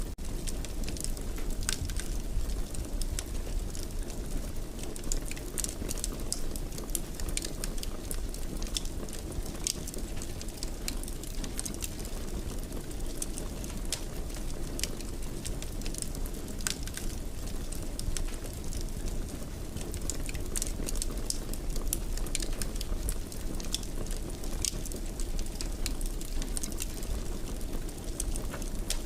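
Wood fire in a fireplace crackling, with irregular sharp pops over a steady low rumble of flames.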